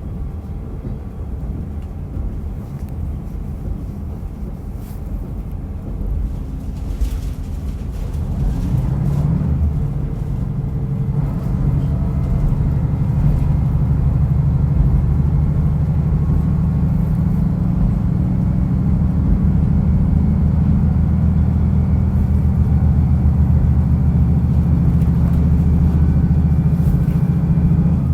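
Diesel railcar running on the Rumoi Main Line, heard from on board: a low rumble of running gear, then about eight seconds in the engine note comes up and holds steady under power for the rest of the stretch.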